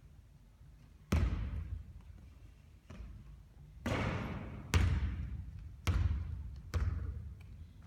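A basketball bouncing hard on the court, about six loud bounces with a ringing tail after each, the last three coming closer together as the ball settles.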